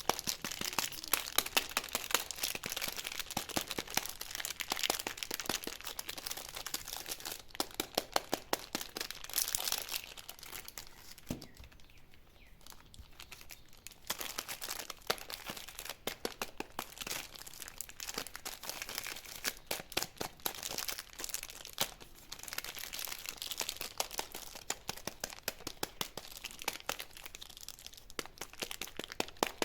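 Candy wrappers being crinkled and torn open by hand: a dense run of crackles and sharp snaps that eases off for a few seconds in the middle, then starts up again.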